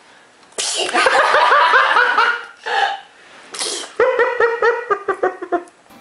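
A toddler's sudden sneeze about half a second in, followed by a run of rhythmic laughter; a second short sneeze-like burst comes near the middle and another run of laughter follows.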